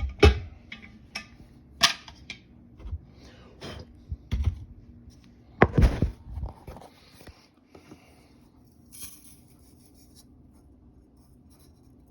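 Handling noise from setting up a Chemex pour-over brewer: scattered knocks and clatter with short scratchy, rustling stretches, the loudest knock about six seconds in, then only faint handling for the last few seconds.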